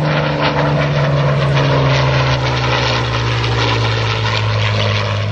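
Piston engine of a WWII warbird in flight, a loud steady drone whose pitch slides slowly downward the whole time, as of the aircraft flying past.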